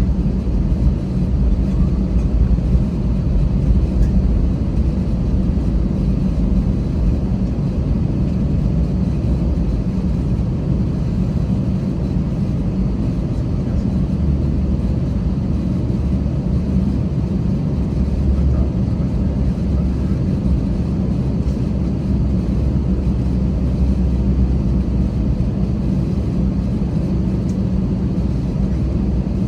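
Airbus A320 heard from inside the passenger cabin: a steady low rumble of the engines and airframe, without any clear rise or fall.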